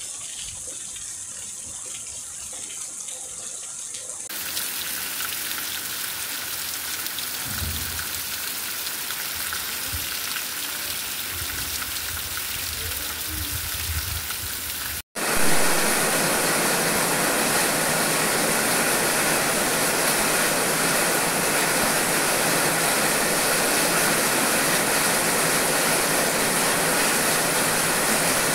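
Steady rain falling, heard in three separate recordings that each get louder than the one before. The middle one has a few low bumps. In the last one, from about halfway, heavy rain comes down on trees and broad leaves.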